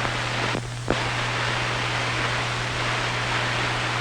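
Steady hiss with a low hum from an old film soundtrack, and a brief dropout just under a second in. No birdsong or other sound stands out.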